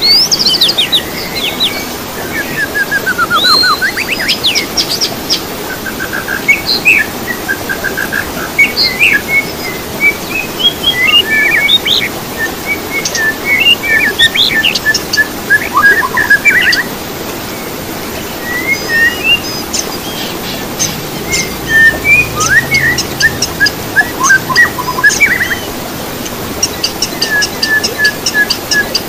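Songbirds singing: a busy string of whistled notes, quick rising and falling slurs and rapid chirping trills, phrases following one another with hardly a pause.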